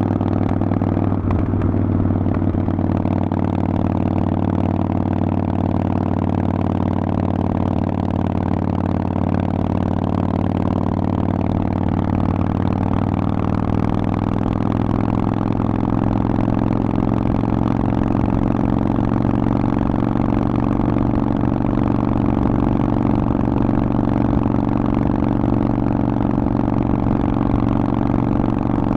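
Harley-Davidson Forty-Eight's air-cooled V-twin running through a Vance & Hines aftermarket exhaust at a fairly steady engine speed, its pitch shifting slightly about halfway through.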